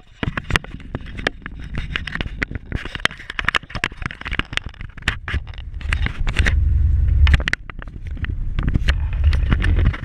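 Polaris off-road vehicle on the move, heard through a GoPro mounted on its front: a low rumble under a constant clatter of sharp clicks and knocks, the rumble growing much louder about six seconds in.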